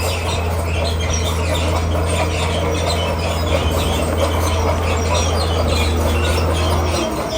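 Komatsu D41P crawler bulldozer at work: its diesel engine runs steadily under the squealing and clattering of its steel tracks, and the engine note changes near the end.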